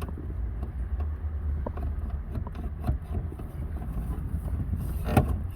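Small plastic clicks and rattles as the radio's wiring connectors are worked loose, over a steady low rumble; one sharper click about five seconds in.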